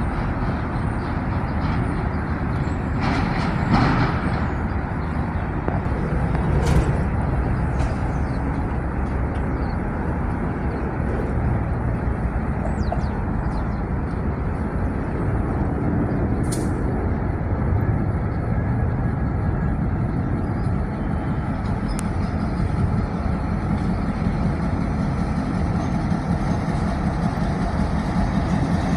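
Steady low rumble of a Metro-North train, with a few short sharp sounds about three to four seconds in, around seven seconds, and once more past the middle.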